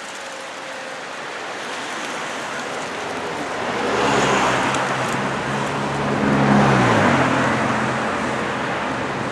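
A motor vehicle drives past with engine and tyre noise. It grows louder from about three and a half seconds in, and its engine note drops in pitch as it goes by, about two-thirds of the way through.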